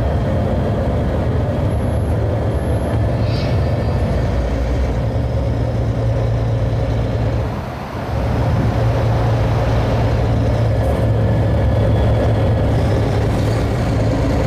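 Scania R-Series truck on the road, a steady low drone of engine and driveline as it coasts over a crest with the accelerator released. A little past halfway the sound briefly drops, then comes back slightly louder and steady.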